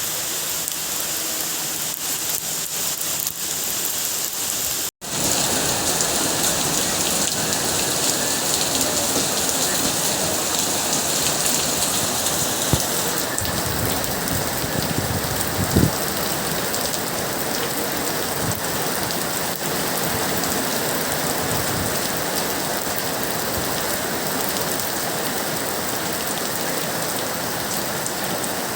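Steady rain falling and pattering on surfaces, an even hiss. It breaks off for an instant about five seconds in, then returns a little louder, with two short knocks in the middle.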